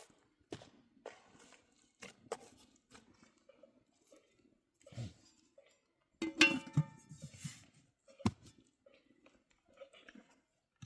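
Scattered knocks and scrapes of objects being handled, with one louder clatter about six seconds in that rings briefly, and a sharp knock soon after.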